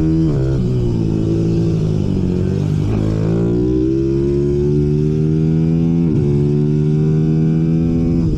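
Racing minibike engine pulling hard, its pitch climbing steadily and dropping sharply three times as it shifts up through the gears.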